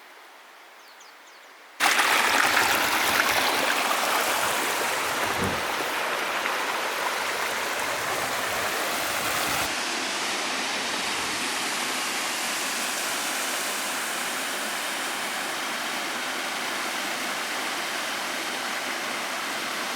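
Rushing stream water, a steady wash that starts abruptly about two seconds in after a faint, quiet opening. Its hiss thins slightly about halfway through.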